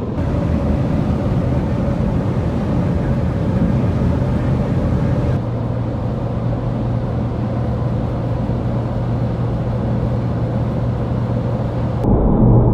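Steady road and engine noise of a car driving at highway speed, heard from inside the cabin, with a low steady hum. The sound changes abruptly twice, the second time near the end to a louder noise.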